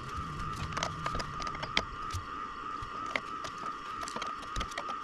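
Irregular light mechanical clicks and ticks over a steady high-pitched whine.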